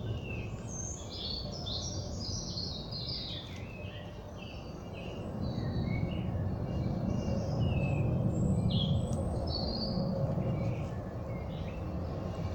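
Small birds singing, a quick run of short high chirps thickest in the first few seconds and scattered after, over a steady low rumble that swells in the middle.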